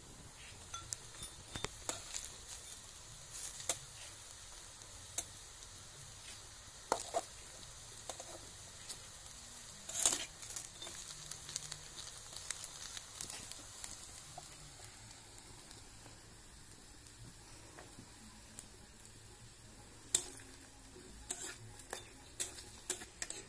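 Battered pieces sizzling as they fry in oil in a black two-handled wok, with a metal spatula scraping and knocking against the pan now and then; the sharpest knock comes about ten seconds in, and several come close together near the end.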